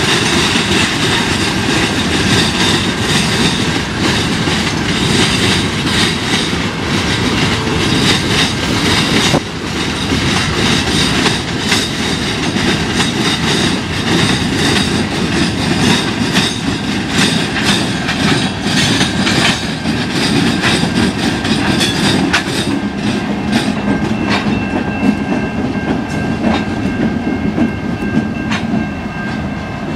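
Freight train rolling past, with steel wheels clattering over the rail joints. Steady tones come in over the clatter in the last several seconds.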